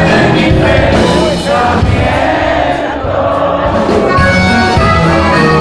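Live norteño band music: a song played at full volume, with singing over the band.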